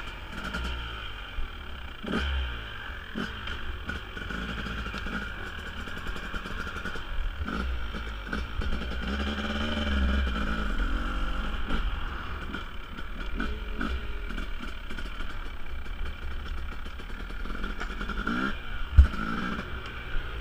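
Husqvarna 250 two-stroke dirt bike engines running and revving, with the pitch rising and falling, amid scattered clattering knocks. One sharp knock stands out near the end.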